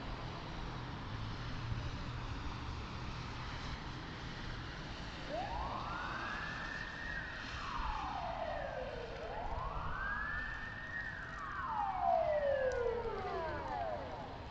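An emergency-vehicle siren wailing, two slow rise-and-fall cycles starting about five seconds in, over steady road and engine noise.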